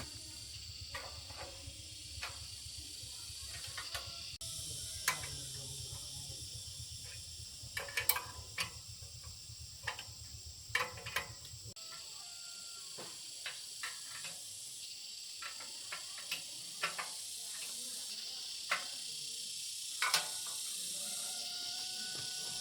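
Scattered clicks and knocks of tools and metal parts being handled during a repair, over a low hum that cuts off about halfway through and a steady high hiss.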